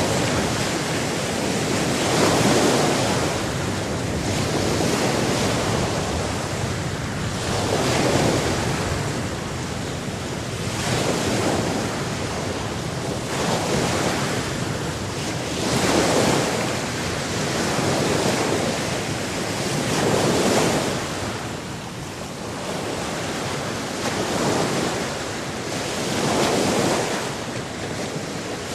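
Sea surf: waves breaking and washing in a continuous rush that swells and falls every two to four seconds.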